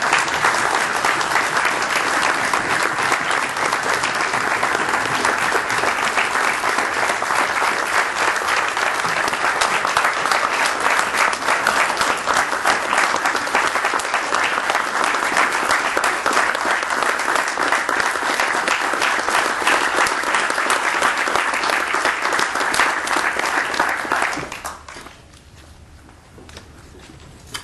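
Audience applauding, long and steady, dying away sharply a few seconds before the end.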